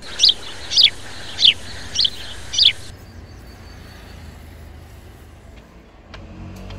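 A bird calling five times, each a short chirp sweeping down in pitch, about two calls a second. The calls stop about three seconds in, leaving a faint steady hiss, with a few faint clicks near the end.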